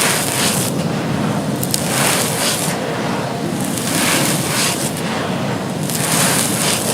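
Dry, crumbly charcoal-ash bricks being crushed and crumbling, a continuous gritty crunching that swells in waves every second or two.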